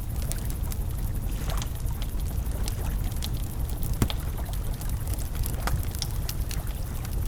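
Wood campfire crackling, with irregular sharp pops and one louder snap about four seconds in, over a steady low rumble.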